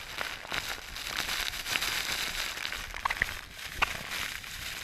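Steady rush of falling and splashing water, with scattered short clicks and taps.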